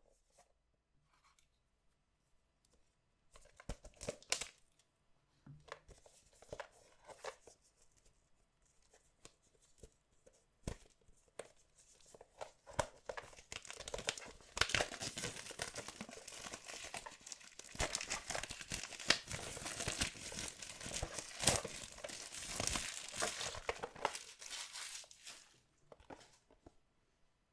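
Packaging on a box of collectible trading cards being torn open and crinkled. At first there are a few scattered rustles and clicks, then a long stretch of dense crinkling and tearing that dies away near the end.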